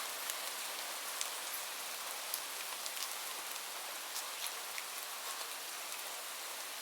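Steady rain falling on a surface, an even hiss scattered with individual sharp drop ticks.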